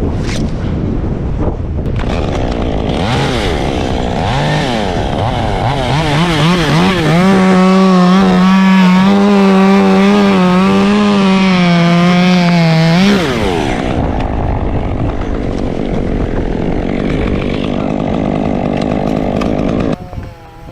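Two-stroke chainsaw revving up and running at full throttle through a cut, its pitch wavering under load. About two-thirds of the way in it drops back to a lower, rougher running speed.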